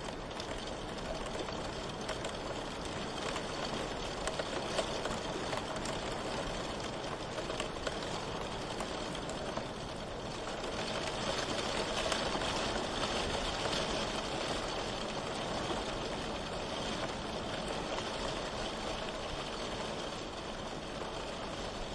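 Steady rain, a dense even hiss that swells slightly about halfway through.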